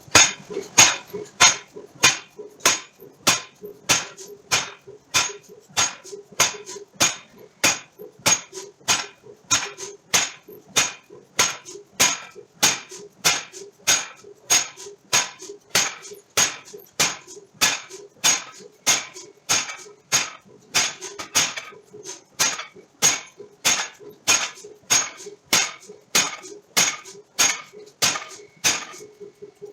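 Forging hammer striking steel in a steady, even rhythm of about two blows a second, over a low steady machine hum.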